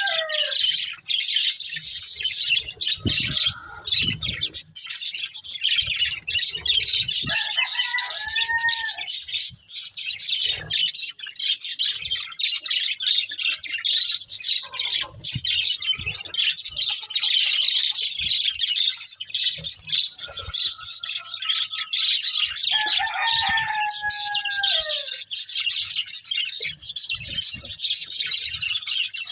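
A flock of budgerigars chattering and chirping continuously in a dense, high-pitched warble. Three times, a longer, lower call from another bird falls in pitch over a second or two.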